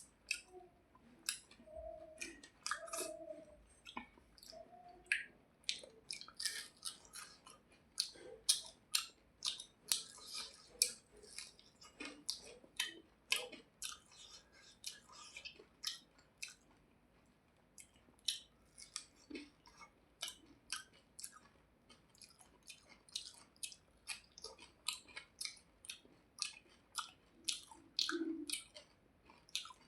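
Close-miked chewing and mouth smacking while eating rice and fish: a steady run of sharp wet clicks, about two a second, with a short lull about halfway through.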